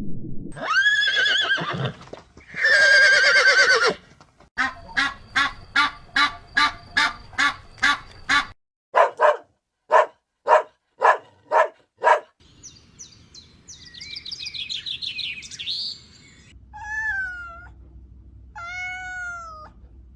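A run of different animal and bird calls, one clip after another: two drawn-out calls, a rapid, evenly spaced series of short peeps, then twittering birdsong, and near the end two short falling calls.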